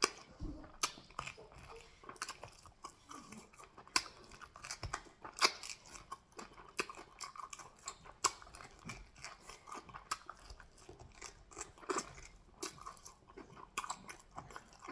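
Close-up chewing and wet mouth sounds of a person eating fufu and goat meat in peanut soup, with irregular lip smacks and sharp clicks.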